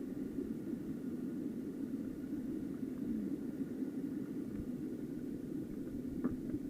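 Steady, dull rushing of a small mountain stream's flowing water, with a faint click or two near the end.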